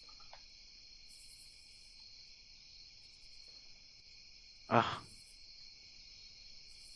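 Background night ambience of crickets chirping: a steady high trill with pulsed chirps above it. A man's voice says "Ah" once near the end.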